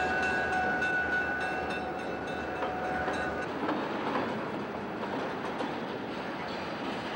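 Diesel locomotive running on the track: a steady rumble with regular clicking from the wheels. Several steady tones sound together through the first half and cut off about three and a half seconds in.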